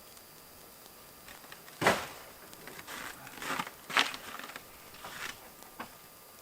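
A sharp knock about two seconds in, then several shorter knocks and clatters, as of gear being handled.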